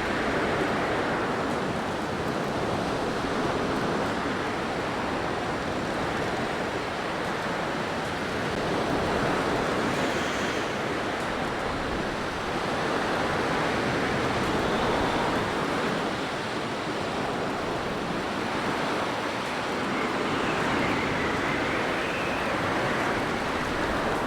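Blizzard wind blowing as a steady rush that swells and eases every few seconds, with a faint high whistle.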